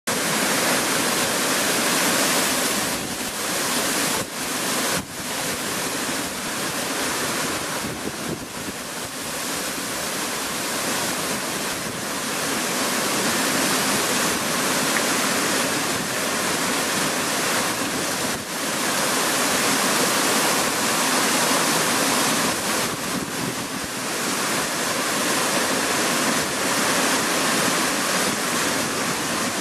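Steady rushing of water, an even noise with a few brief dips.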